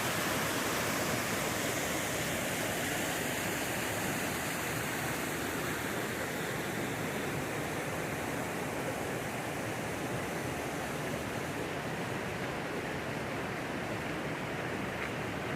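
Steady rush of falling or fast-flowing creek water, with the hiss thinning slightly near the end.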